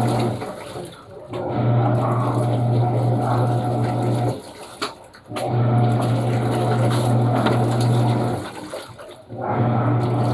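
Panasonic washing machine in its wash cycle: the motor hum runs for about three seconds at a time, stops for about a second, then starts again, three times over, with water churning in the tub.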